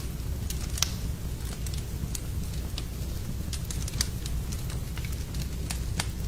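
Wood fire in a fireplace crackling, with irregular sharp pops over a steady low rumble; the loudest pops come about a second in, around four seconds and near the end.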